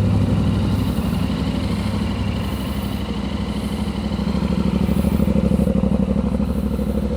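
Motorcycle engine idling steadily, with an even pulsing beat.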